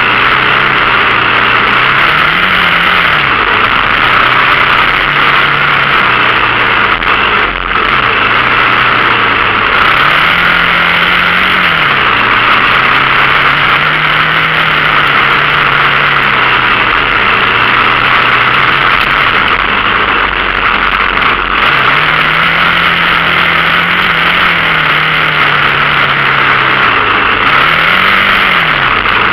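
Dirt bike engine running under way, its pitch rising and falling several times as the throttle opens and closes and holding steady in between, under a loud, constant rushing noise.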